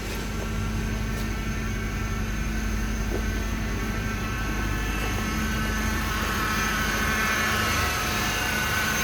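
Honda Accord engine idling shortly after start-up, with a steady whine from the power steering pump that grows gradually louder. The owner puts the whine down to sealant added after an old pump leak; it tends to quieten as the fluid circulates.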